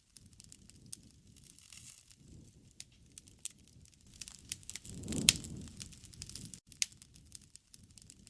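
Wood fire crackling, with irregular sharp pops over a low, steady rush of flame. About five seconds in the flame noise swells briefly and the loudest pop snaps.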